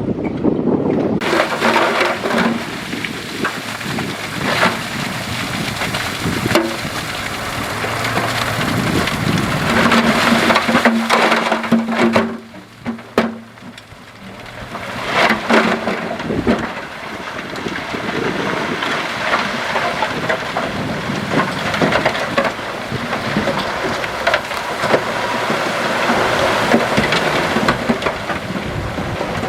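Heavy earthmoving on stone: rocks and stones rumbling, crunching and grinding as they are dumped and pushed, over a diesel engine running. The noise dips briefly about twelve seconds in.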